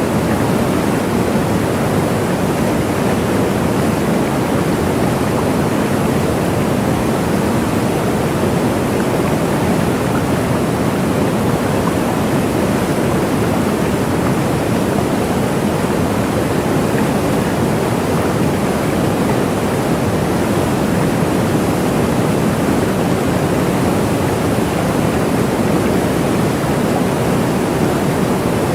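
Waterfall: a steady, even rush of falling water, strongest in the low and middle range, with no change throughout.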